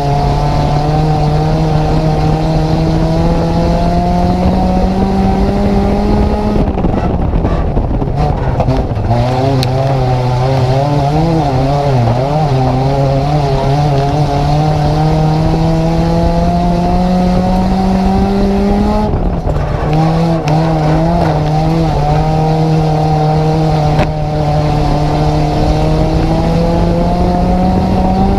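Nissan Micra race car's engine heard from inside the car, its pitch climbing steadily under acceleration. It drops sharply as the driver lifts about six seconds in and again near twenty seconds, and the note wavers for a few seconds after the first lift.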